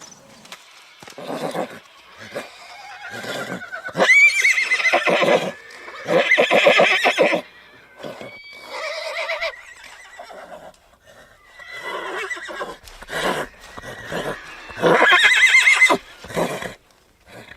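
Horses neighing repeatedly: long, quavering whinnies about four and six seconds in and again near the end, with shorter, quieter calls between.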